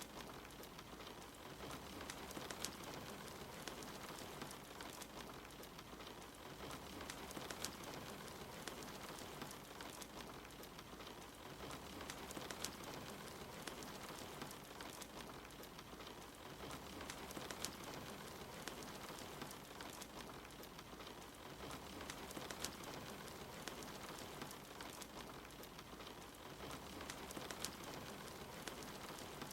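Steady rain falling on a surface, with the scattered sharp snaps of a crackling wood fire mixed in.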